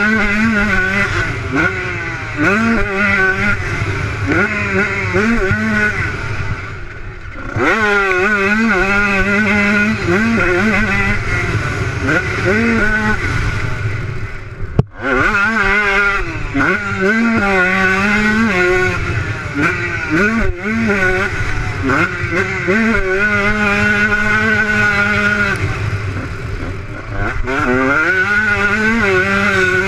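Motocross bike engines revving hard, their pitch climbing and falling again and again with the throttle and gear changes. About seven seconds in one eases off and then sweeps back up.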